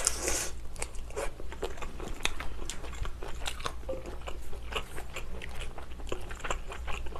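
Close-miked chewing of a mouthful of shrimp from the noodle soup: a quick, uneven run of small crisp, wet clicks.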